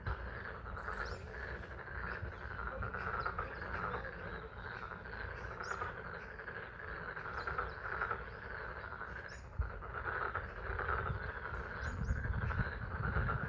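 Frog chorus calling as a dense, pulsing din, with spring rain falling. A few short high chirps come through now and then, over a low rumble.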